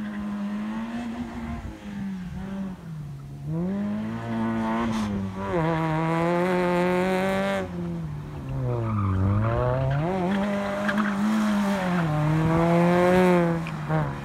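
Renault Megane's engine revving hard as it is driven around a cone course, its pitch rising and falling again and again with the gear changes and braking. Tyres squeal around the middle.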